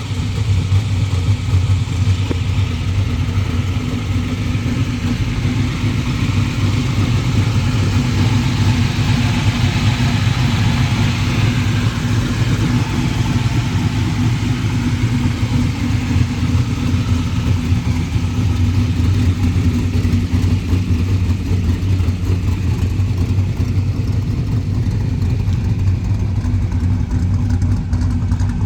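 LS6 5.7-litre V8 idling steadily, running for the first time after sitting through the winter.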